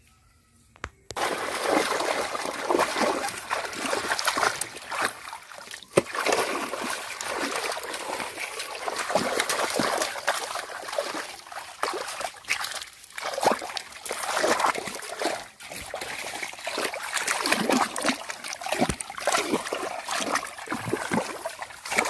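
Water splashing and sloshing in quick, irregular strokes. It starts suddenly about a second in and keeps going.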